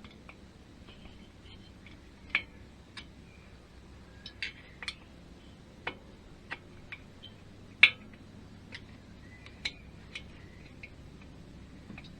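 Irregular sharp clicks and clinks of small metal parts and hand tools being handled while fitting an engine's rocker gear, about fifteen over the stretch, the loudest about two-thirds of the way in.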